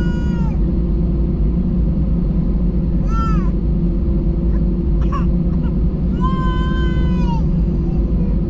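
Steady loud low rumble and hum inside an Airbus A320 passenger cabin. Three high, wavering cries cut through it: a short one ending just after the start, another about three seconds in, and a longer one from about six seconds in.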